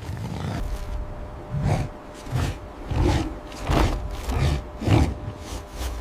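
A large wild animal growling in a run of short, rough grunts, one about every two-thirds of a second.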